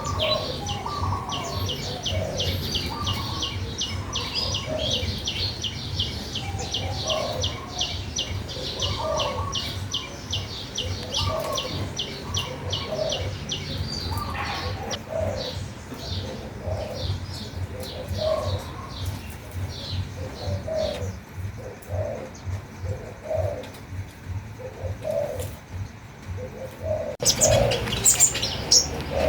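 Birds calling. A fast, steady series of high chirps runs for about the first half, alongside lower calls repeated roughly once a second, over a steady low hum. Near the end the sound changes abruptly to a louder, denser mix of calls.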